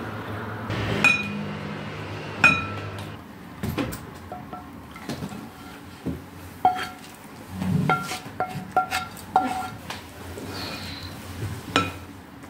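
Dishes and cutlery clinking: a string of irregular sharp clinks and knocks, several with a short ring.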